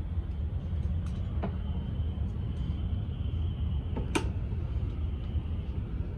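Airport terminal background noise: a steady low rumble with a faint high whine, and a sharp click about four seconds in.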